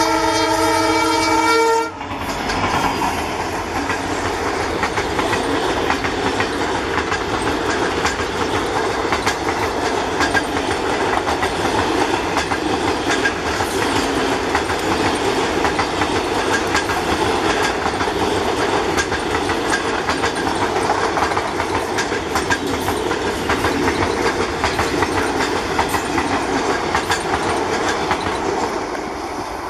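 Indian Railways diesel locomotive sounding its horn once, a chord of several notes held for just under two seconds and cut off sharply. Then the passenger coaches roll past close by, their wheels clattering steadily over the rail joints, easing slightly near the end.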